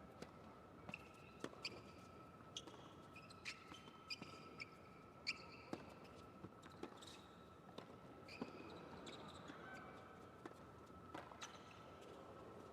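Faint, irregular squeaks of tennis shoes on the court mixed with short sharp clicks of play, over a faint steady high hum.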